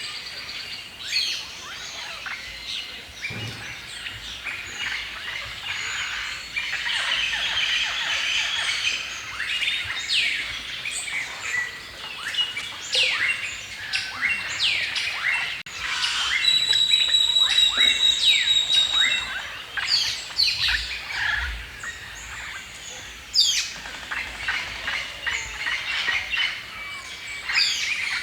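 Several birds chirping and singing at once, a busy mix of quick sweeping chirps and calls. About halfway through, one bird sings a run of repeated high, steady whistled notes for a few seconds, the loudest part.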